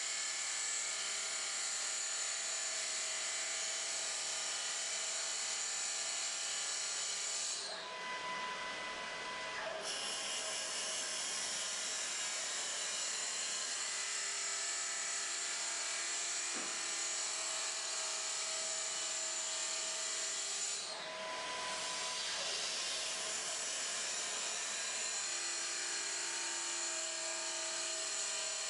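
CNC wood lathe cutting a wooden bowl: a steady high-pitched whine and hiss of the tool cutting the spinning wood. The cutting noise briefly drops twice, about eight and about twenty-one seconds in.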